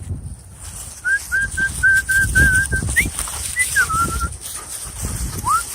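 A person whistling to call dogs: a quick run of short, clear whistled notes, then a higher rising note and a few lower ones, and one more rising note near the end. Wind buffets the microphone underneath.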